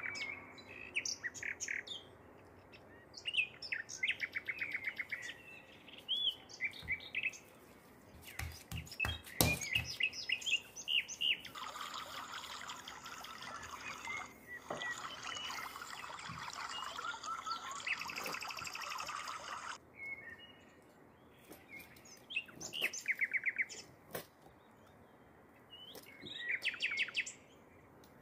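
Small birds chirping and trilling again and again, with a dense stretch of twittering through the middle. A few sharp knocks sound about nine to ten seconds in.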